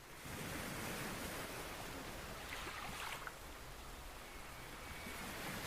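Steady soft rush of sea water, waves washing with some wind.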